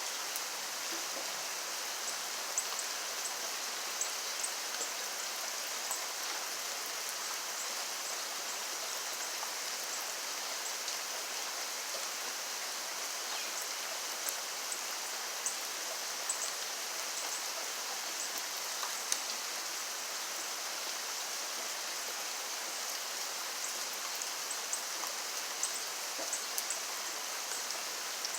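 Steady rainfall, an even hiss with scattered small drop ticks and patters throughout.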